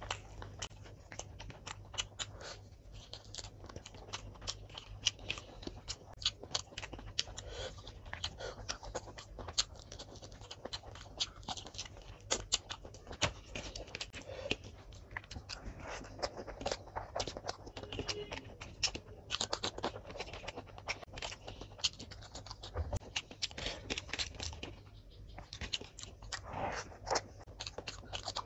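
Close-miked eating sounds of a person eating biryani by hand: wet chewing and lip-smacking, with many small mouth clicks and an occasional scrape of fingers on a steel plate.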